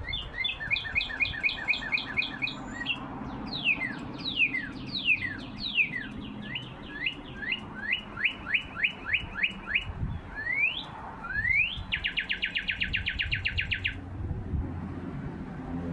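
Birds singing a string of varied phrases: groups of quick repeated notes, a series of falling whistles, then a run of short rising ones, and a fast even trill about twelve seconds in that stops two seconds later.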